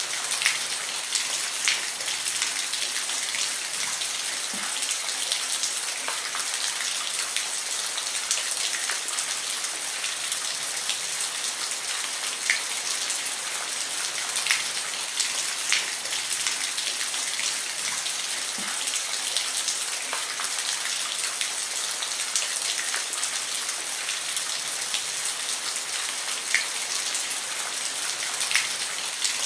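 Steady rain falling on a roof, a dense hiss with individual heavier drops ticking sharply on the surface every second or two.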